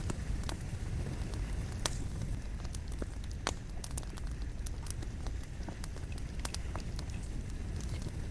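Wood fire burning: a steady low rumble of flame with irregular sharp crackles and pops from the burning logs, a couple of pops standing out about two and three and a half seconds in.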